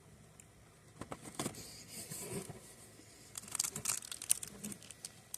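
Plastic snack packaging crinkling and rustling as it is handled, in short uneven spells with a few light clicks.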